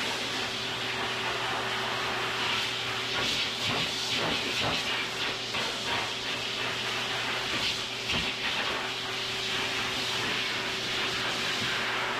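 Pet blow dryer running steadily, blasting air into a thick double coat, with a low steady hum from its motor under the rush of air.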